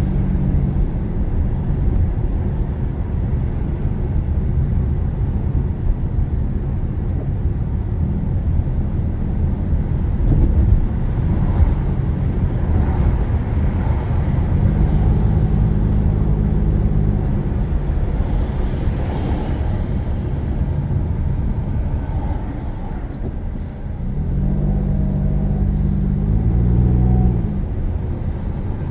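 Car engine and tyre road noise heard from inside the cabin while driving. The engine note climbs twice, near the middle and again near the end, and drops back each time.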